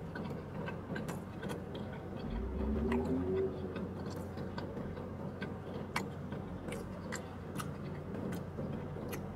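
A man chewing a mouthful of breakfast burrito close to the microphone, with many small mouth clicks and smacks. About two and a half seconds in there is a short rising hum.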